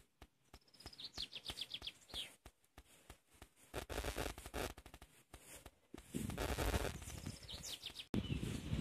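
A songbird singing a short trill of quick falling notes, about a second in and again near the end, over scattered clicks and low rustling.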